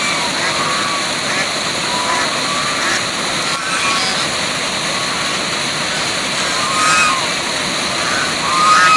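Steady rush of a waterfall, with short chirping calls sounding every second or so, the loudest near the end.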